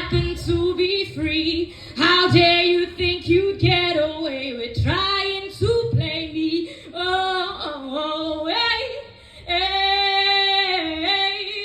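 A woman singing solo, with sliding runs and a long held note near the end.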